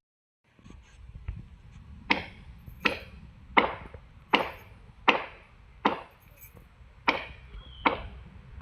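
Chopping into wood with a blade: about nine strong, evenly paced strokes, roughly one every three-quarters of a second.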